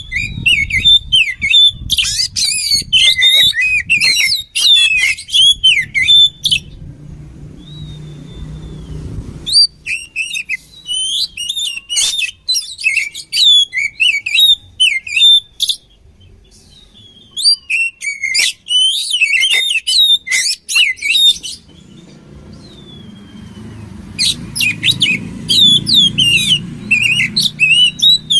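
Oriental magpie-robin singing: rapid, varied high whistles and chattering notes in four bouts with short pauses between them. A faint low hum lies under parts of the song.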